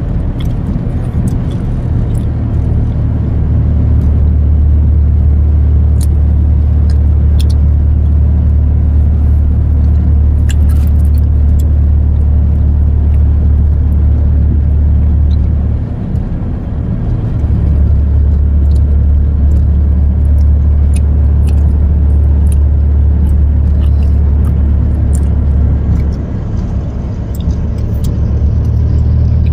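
Steady low rumble of road and engine noise inside a moving truck's cab, easing briefly twice, with faint scattered small ticks.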